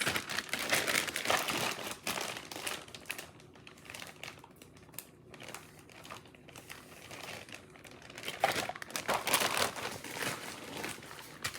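Plastic zip-top bags crinkling and rustling as they are handled, heaviest for the first couple of seconds and again for a couple of seconds near the end, lighter in between.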